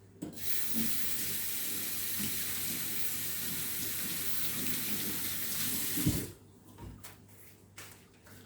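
Kitchen tap running into the sink in a steady stream for about six seconds, then turned off abruptly with a knock.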